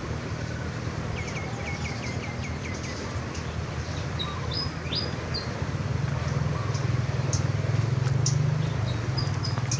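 Small birds chirping outdoors: a quick run of about eight short chirps in the first few seconds, then scattered high whistled notes. A steady low rumble runs underneath and grows louder about six seconds in.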